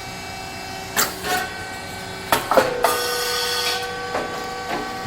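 SYP4506 popped chip machine running through a puffing cycle on popcorn kernels, with a steady mechanical hum. There is a knock about a second in, then a sharp pop about halfway as the heated mold releases and the kernels puff into a chip, followed by about a second of hissing.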